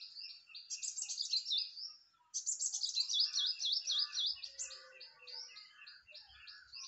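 Small birds chirping in a rapid, continuous stream of short high chirps, pausing briefly about two seconds in.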